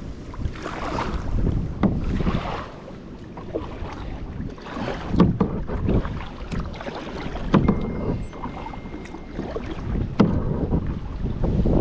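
Kayak on the water: irregular splashing and sharp knocks, with wind buffeting the microphone.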